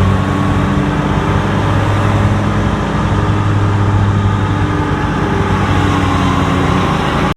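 Riding lawn mower engine running steadily and loud, heard close up while mowing.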